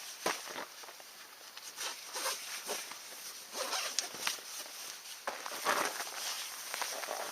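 Irregular crunching and rustling of someone moving about and handling camping gear, with short scuffs and clicks.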